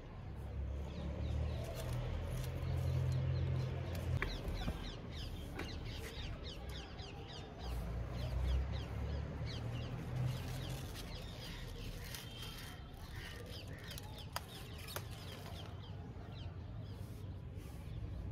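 Birds calling with quick, falling chirps, repeated rapidly for several seconds in the middle, over low rumbling that swells twice. A few sharp clicks stand out.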